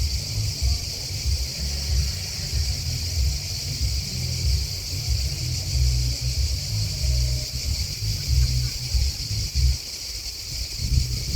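A steady, high-pitched chorus of grasshoppers and crickets chirping, over a low, uneven rumble that drops off briefly near the end.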